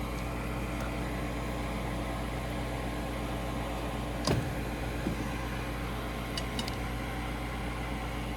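Steady hum of a gas furnace's draft inducer (flue) motor running, with one sharp click about four seconds in. The inducer runs but the furnace shows a 3-flash code, which the technician takes for a vacuum (pressure) switch fault.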